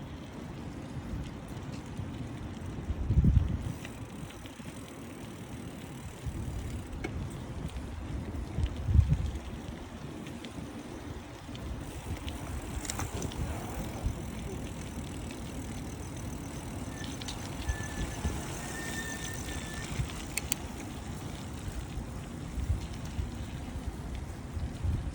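Riding noise of a bicycle: a steady low rumble with wind buffeting the microphone, louder in two gusts about three and nine seconds in.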